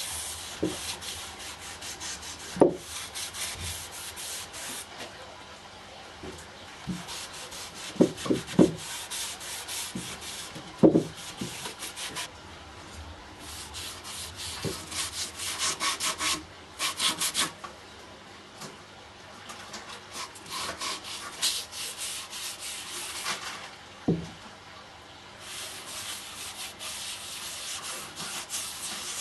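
Hand sanding of wood: spells of quick back-and-forth scraping strokes with short pauses between them, and a few sharp wooden knocks, the loudest about 11 seconds in.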